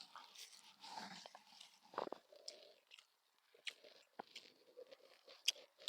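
A person chewing a mouthful of rehydrated noodles close to the microphone, faint, with scattered small clicks.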